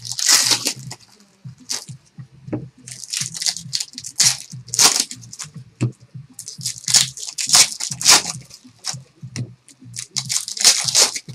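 Foil trading-card pack wrappers being torn open and crinkled, in a run of irregular short rustles and crackles, over a faint steady low hum.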